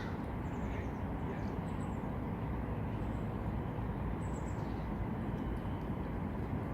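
Outdoor ambience: a steady low rumble with birds chirping faintly now and then.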